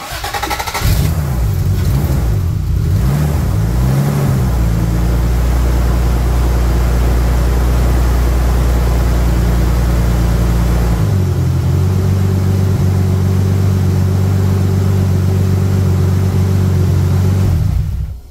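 Turbocharged Toyota 7M-GE straight-six starting up, its idle wavering for a few seconds before settling into a steady idle. About eleven seconds in the note changes, and the sound cuts off suddenly near the end.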